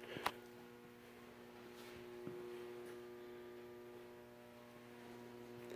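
Faint steady electrical mains hum with several even overtones, and a couple of light clicks right at the start.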